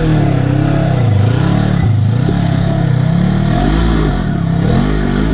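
Polaris RZR side-by-side engine revving up and down over and over, the pitch rising and falling about once a second as the throttle is worked to keep momentum on a rough hill climb.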